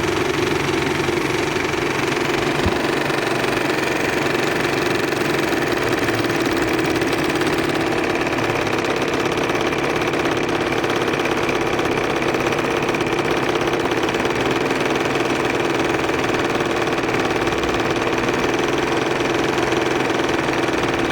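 Bassett Lowke model steam engine running steadily on steam at about 25 psi, fed by a methylated-spirit-fired firetube boiler.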